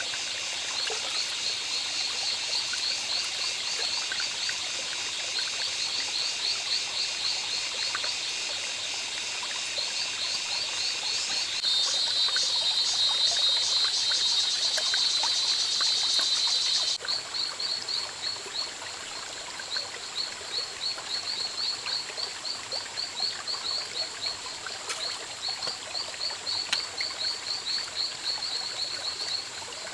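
Rainforest chorus of insects and frogs: fast, regular, high chirping over a steady high buzz. The mix of callers changes abruptly twice, about a third of the way in and just past halfway.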